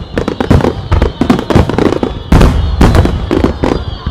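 Dense starmine barrage of large aerial firework shells bursting, booms and crackles coming thick and fast, several a second with no gap between them. Faint thin high whistling tones run underneath.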